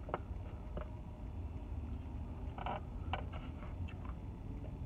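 Eating noises: a few short, scattered chewing clicks and smacks, over a steady low rumble.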